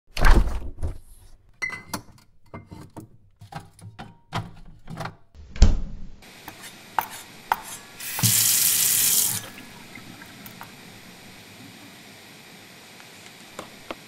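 Kitchen sink sounds: a string of clinks and knocks with a couple of heavier thumps, then a water tap run briefly for about a second.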